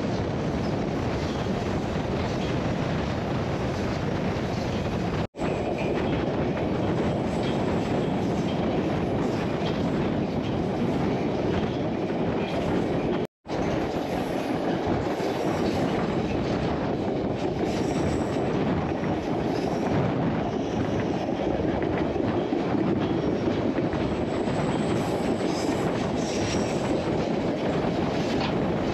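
White Pass narrow-gauge railway train running along the track, a steady noise of the train in motion. The sound drops out for an instant twice, about five seconds in and again about thirteen seconds in.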